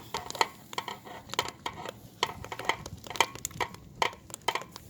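Thick red bean porridge in a cast-iron cauldron being stirred as it bubbles and spatters: irregular clicks and knocks, several a second.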